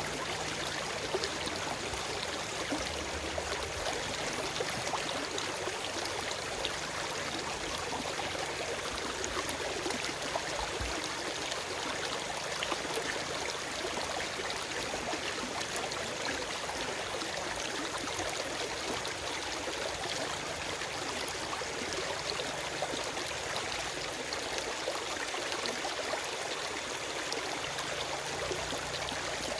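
Forest stream flowing over rocks: a steady rush of water with fine splashing and gurgling, no birdsong.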